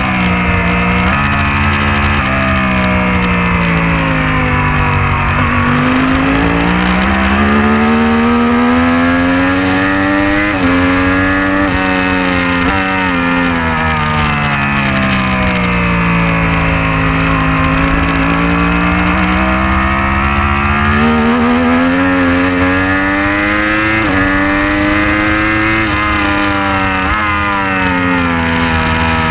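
Superbike racing motorcycle engine under full race load, revs climbing hard through upshifts, each shift a sudden drop in pitch, then falling away as it slows for corners, several times over, with steady wind rumble beneath.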